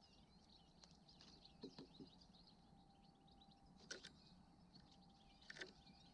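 Small songbirds twittering faintly and continuously in many quick high chirps, with a few soft knocks about two, four and five and a half seconds in.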